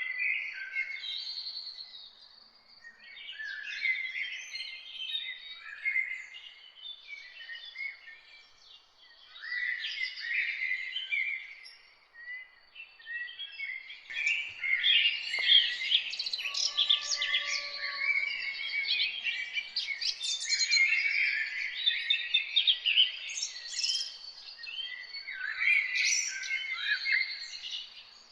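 Several songbirds singing and chirping at once in an overlapping chorus of quick high chirps and trills. The chorus thickens and grows louder through the middle, with a couple of lower whistled notes among the chirps.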